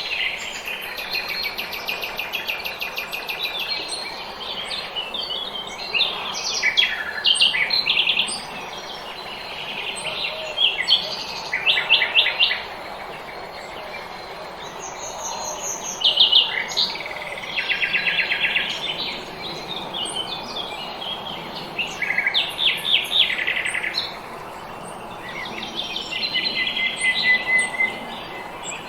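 Small songbirds singing in spring: short phrases of rapid trills and chirps follow one another every few seconds, over a steady background hiss.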